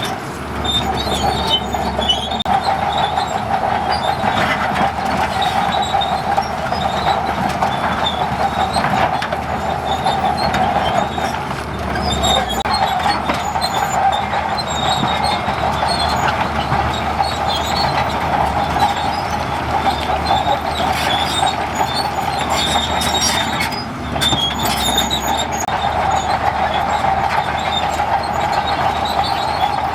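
Crawler bulldozer running under load, its steel tracks clanking and squealing over a steady engine note, easing off briefly about twelve and twenty-four seconds in.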